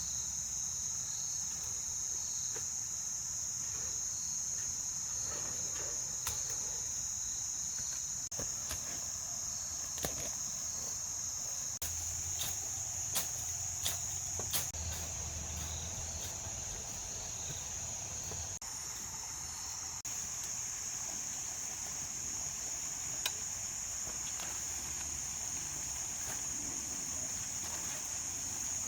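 Steady high-pitched chorus of insects, with scattered faint clicks and knocks.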